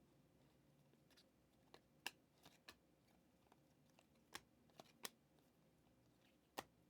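Faint clicks and snaps of football trading cards being handled and flipped through one by one, about ten at uneven spacing.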